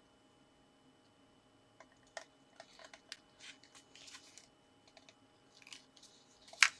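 Cardstock pieces being handled and fitted together: scattered light taps, clicks and short paper rustles starting after a second or two, with a louder sharp click near the end.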